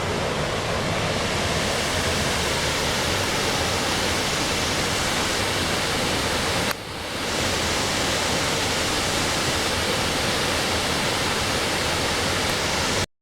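Waterfall rushing, a steady noise with no pauses. It drops briefly about two-thirds of the way through, then cuts off abruptly near the end.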